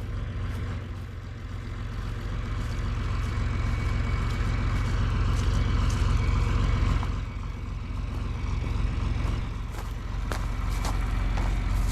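John Deere 4020 tractor engine running with a steady low drone, getting louder for several seconds in the middle before settling back.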